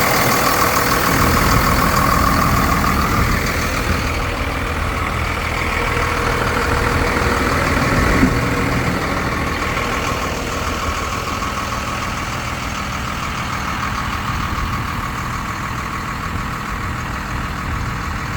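Diesel truck engine, a 5.9 Cummins, running steadily; it is louder for the first few seconds, then eases to a lower, duller level, with a brief knock about eight seconds in.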